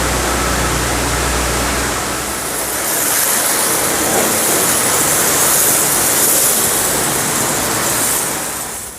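High-pressure water jet from an electric pressure washer spraying, a steady loud hiss; a low hum underneath for the first few seconds, and the spray grows brighter and hissier from about three seconds in until it drops off sharply near the end.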